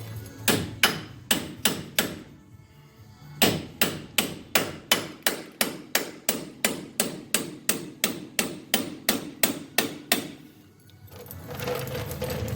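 Steel hammer blows on a pickle fork (ball joint separator), driving it in to split the ball joint. There is a short burst of about five strikes, a brief pause, then a long steady run of about three blows a second that stops near the end.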